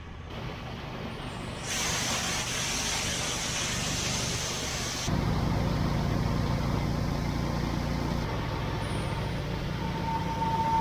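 Heavy vehicle engine running, with a loud hiss in the first few seconds that cuts off sharply. About halfway through, a deeper engine hum takes over, and near the end a steady whine joins it.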